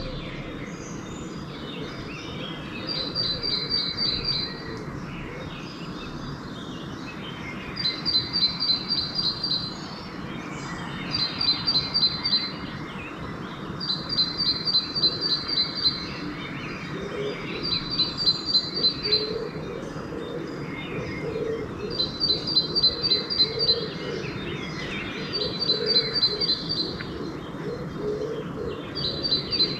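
Dawn bird chorus: one songbird repeats a rapid, high trill of evenly spaced notes in phrases about two seconds long, again and again every few seconds. Fainter calls from other birds sound beneath it, with lower warbling notes in the second half.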